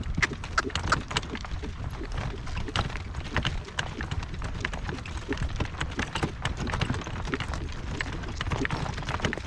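Horse pulling a cart across soft field ground: irregular hoof falls and a run of clinks and rattles from harness and cart, over a steady low rumble.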